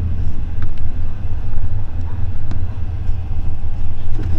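Steady low rumble of a moving passenger train heard from inside a sleeper carriage, with a few faint clicks and knocks.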